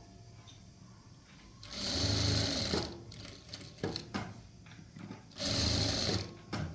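Sewing machine stitching in two short runs of about a second each, with small clicks and knocks between them.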